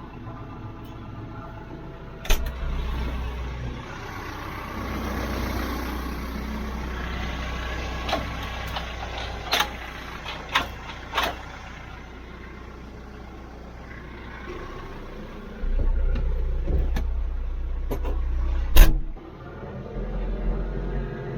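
TYM T574 tractor's diesel engine running with a low rumble that swells and drops back in stretches, with a series of sharp knocks and clanks, the loudest one near the end.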